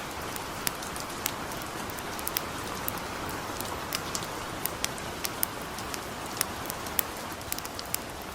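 Light rain falling steadily, mixed with a campfire crackling: irregular sharp pops, a few a second.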